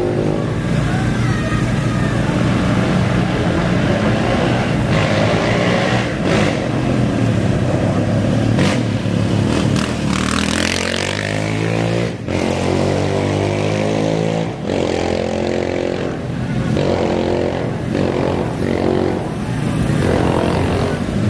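Off-road racing engines running at a start line, revving. About ten seconds in, one engine's pitch rises steeply as it accelerates away.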